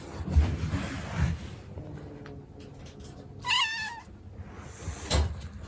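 A cat gives one short, wavering meow about three and a half seconds in. A few dull knocks and rustles come before and after it.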